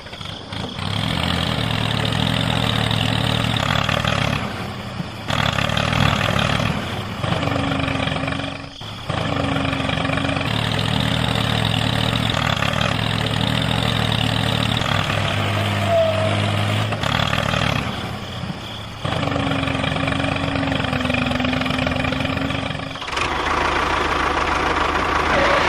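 An engine running steadily in several long stretches, with short breaks and shifts in pitch between them.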